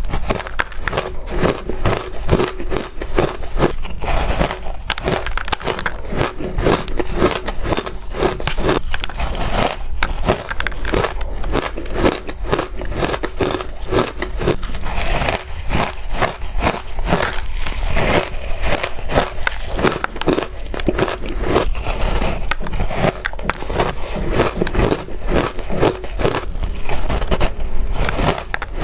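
Bars of frozen shaved ice being bitten and chewed, a continuous stream of crisp crunches and crackles.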